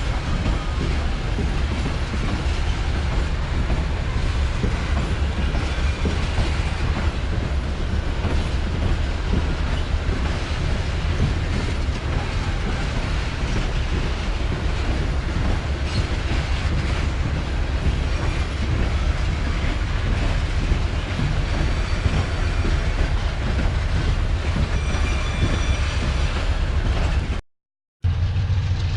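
Freight train wagons rolling steadily past, wheels clattering over the rail joints, with a faint high wheel squeal briefly near the end. The sound cuts out suddenly for about half a second just before the end.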